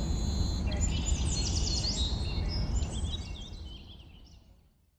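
Birds chirping and singing over a steady low rumble, the whole thing fading out to silence about four seconds in.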